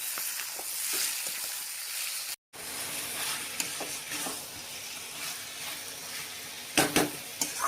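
Chicken sizzling in a pan while being stirred, with scattered clicks of the spatula on the pan and a few louder clacks near the end. The sound cuts out briefly about two and a half seconds in.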